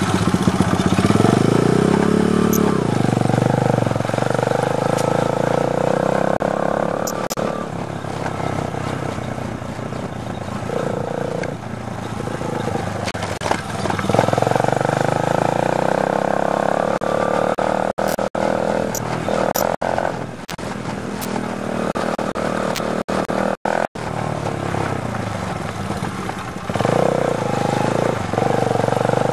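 Dirt bike engine running as it is ridden around, its pitch rising and falling with the throttle, with a few very brief cut-outs in the sound in the second half.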